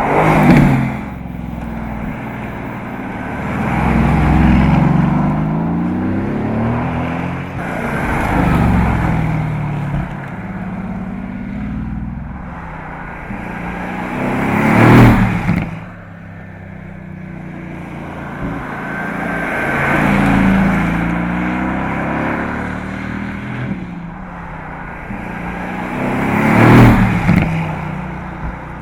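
A high-performance sports car's engine and exhaust revving and accelerating through the gears, passing close by three times: about a second in, midway and near the end. At each pass the pitch drops sharply.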